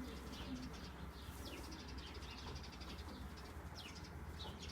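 Faint chirping of small birds: many short, quick chirps that slide downward in pitch, over a steady low hum.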